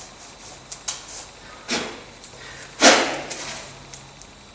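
Masking tape being pulled off the roll in two quick rasping strips, the second louder, about three seconds in, after a few light clicks and knocks of handling.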